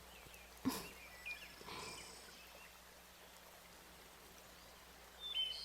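Faint outdoor nature ambience with a few short bird chirps, once about a second in and again near the end. There is one soft tap just before the first chirps.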